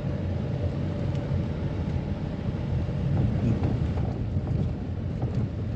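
Steady engine and road rumble of a moving vehicle being driven along a forest road, with some wind on the microphone.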